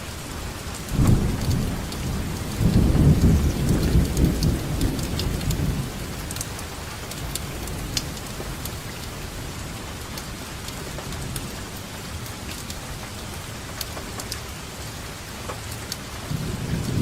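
Steady rainfall with scattered drop ticks. A roll of thunder rumbles from about a second in for several seconds and fades away, and another begins near the end.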